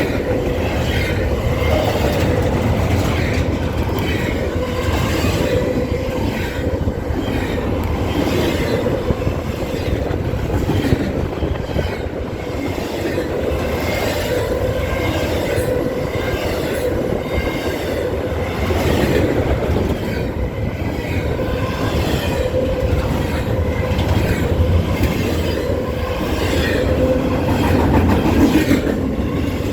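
Freight train cars rolling past, wheels clicking over rail joints in a steady, even rhythm, with a faint steady wheel squeal.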